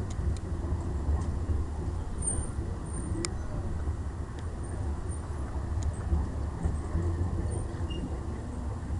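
Tourist train running along its track: a steady low rumble with a few faint clicks.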